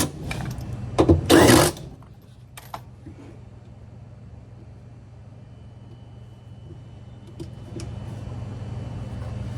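Power screwdriver whirring in two short runs in the first two seconds, driving in fasteners while the washer's drive motor is fitted, then only a steady low hum.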